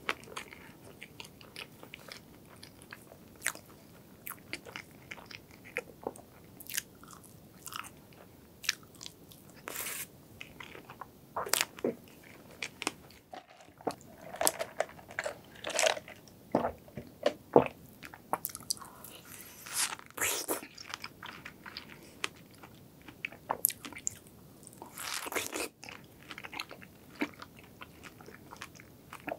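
Close-miked eating sounds: wet chewing and lip smacks of strawberry crepe cake and cream. There is a sip of milk tea through a straw around the middle, and chewing of a large fresh strawberry near the end.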